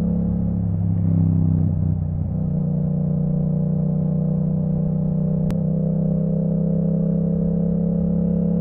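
2022 Yamaha MT-07's parallel-twin engine running through an Akrapovic full titanium exhaust with the dB killer removed. The note changes about a second in and dips briefly near two seconds, then climbs slowly and steadily. A single sharp click is heard about five and a half seconds in.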